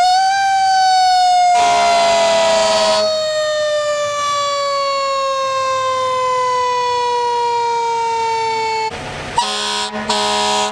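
Fire truck's mechanical siren slowly winding down, its wail falling steadily in pitch. Air horn blasts over it: one about a second and a half in, and two short blasts near the end.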